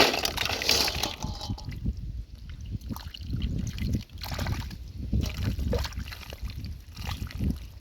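Muddy shallow water sloshing and splashing in irregular surges as hands dig through wet mud, with a bigger splash at the start.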